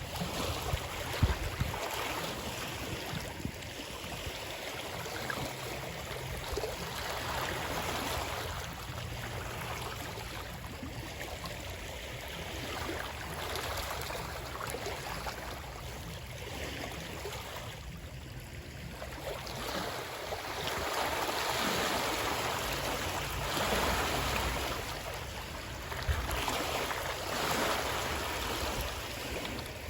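Water running and splashing in a continuous rushing hiss that swells and eases every few seconds. There is a brief low thump about a second in.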